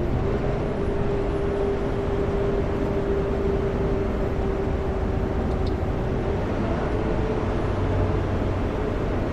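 Kenworth W900L semi-truck cruising on the highway, heard from inside the cab: steady engine drone and road noise with a constant hum running underneath.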